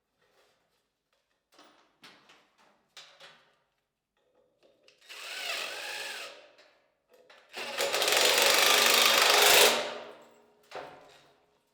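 A drill-like power tool running in short bursts, with a louder steady run of about two seconds in the second half.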